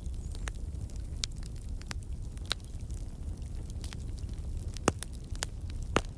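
Wood campfire burning with a steady low rumble and irregular sharp crackles and pops from the logs, two louder pops near the end. The crackling comes from water and sap in the wood turning to steam and escaping.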